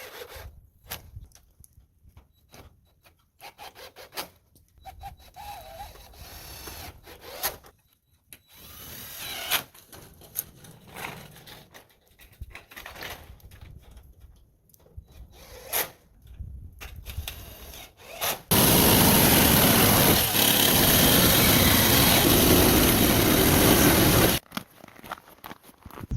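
Building work on a cabin roof: scattered knocks and taps, then about six seconds of loud, steady cutting noise from a tool that starts suddenly and cuts off abruptly.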